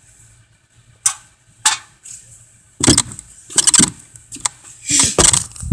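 Handling noise: two short clicks, then a run of short rattling, rustling bursts about a second apart, as an object is shaken and knocked about close to the microphone.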